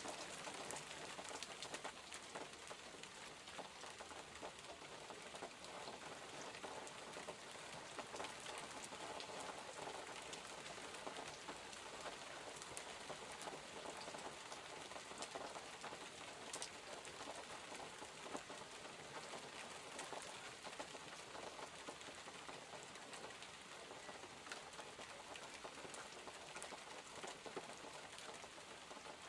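Steady rain: an even hiss with many scattered small drop ticks.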